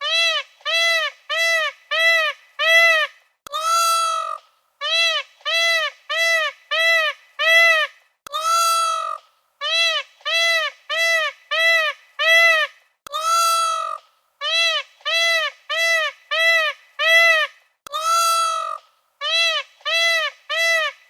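Peacock calling loudly over and over: one longer call followed by a run of five or six short, quick calls, the pattern repeating about every five seconds.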